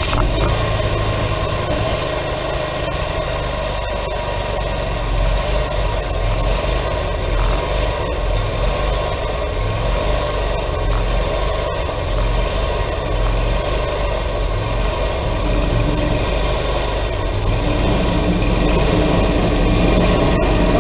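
Wood-Mizer LT40 hydraulic sawmill's engine running steadily just after being started, growing a little louder with an added tone in the last few seconds.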